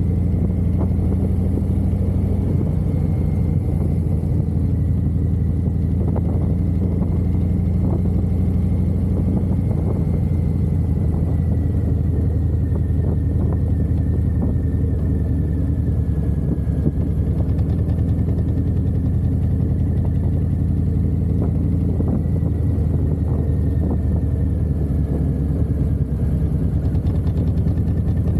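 Harley-Davidson V-twin motorcycle engine running steadily while riding, its low exhaust note holding fairly even with only slight rises and dips.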